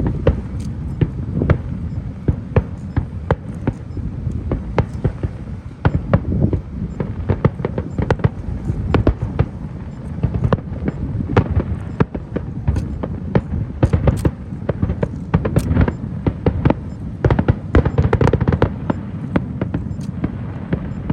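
Fireworks display: many sharp bangs and crackles in quick succession over a continuous low rumble.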